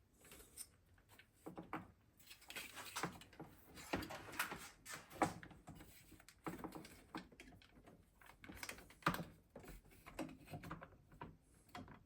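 Irregular small clicks, taps and rustling as the plastic parts of a Flymo Hover Vac 250 lawnmower are handled and fitted by hand.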